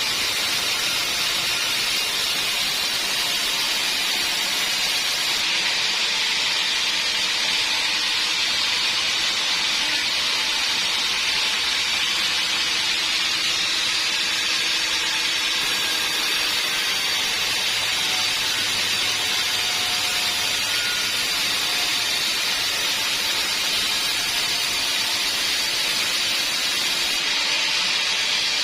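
Band sawmill blade cutting through a log: a steady, unbroken noise with no pauses.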